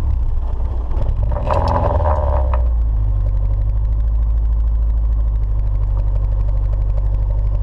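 Turbocharged Nissan 240SX's KA24DE engine idling while it sucks Sea Foam in through a vacuum line, the idle starting to run rough. About a second and a half in there is a brief burst of higher, noisier sound over the idle.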